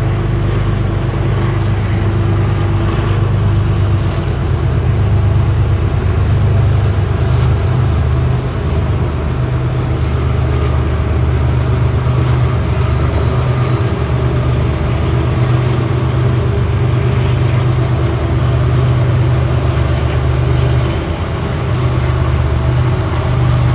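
CSX coal train rolling past at trackside: a steady heavy rumble of the cars on the rails, with a thin high wheel squeal that comes and goes.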